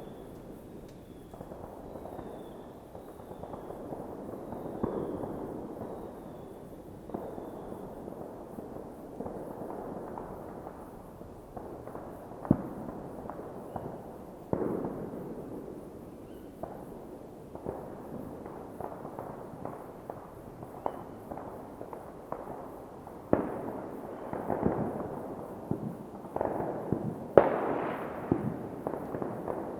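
Fireworks going off from many places at once: a continuous rumble of overlapping bangs and booms with echoing tails. Sharper, louder reports stand out about twelve seconds in, and the bangs come thicker and louder in the last third.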